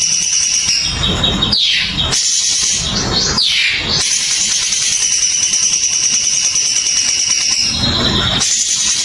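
Cucak cungkok bird song from a masteran recording: a steady, high-pitched trilling with several sharp falling calls about two to four seconds in, and low rumbling bursts near the start and the end.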